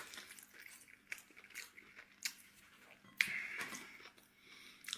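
Close-up eating sounds: a person chewing food, with scattered small clicks and crunches and a louder, brief noisy sound about three seconds in.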